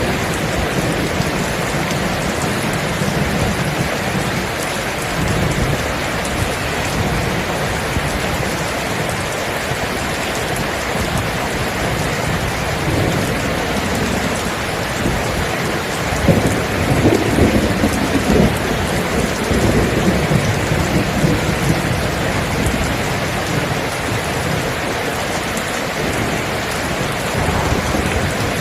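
Steady rain falling in a thunderstorm, with thunder rumbling under it and swelling a little past the middle.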